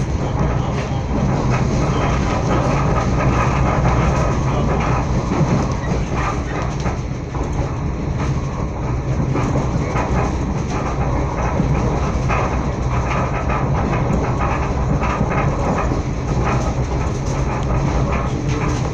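Srbija Voz passenger train running along the track, heard from inside the carriage: a steady rumble of wheels on rails with scattered clicks.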